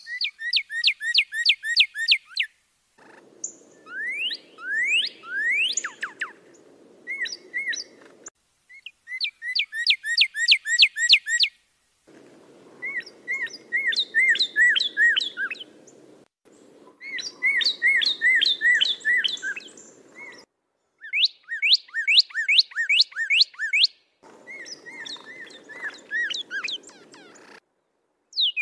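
Songbird singing phrases of rapidly repeated, falling whistled notes, about five or six a second. Each phrase lasts two to three seconds, with short gaps between them, and the phrases are cut together from separate recordings.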